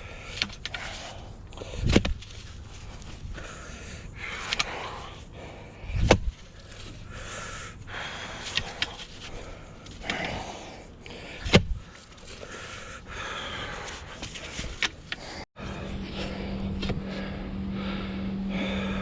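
Digging a post hole in sandy soil by hand: three heavy thuds of a digging tool striking into the hole, a few seconds apart, with scraping and scooping of sand between them. Near the end the sound breaks off and a steady low hum takes over.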